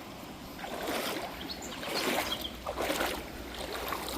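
Legs wading through knee-deep river water, sloshing and splashing in surges about once a second, over the steady rush of the stream.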